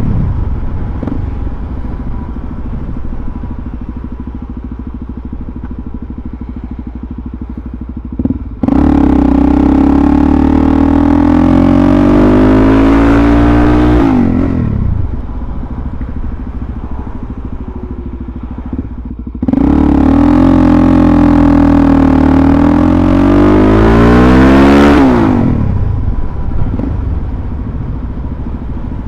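Suzuki DR-Z400SM's single-cylinder four-stroke engine under way, accelerating hard twice, about nine seconds in and again about twenty seconds in, with the pitch climbing. After each pull the throttle is rolled off and the engine drops back to a quieter cruise.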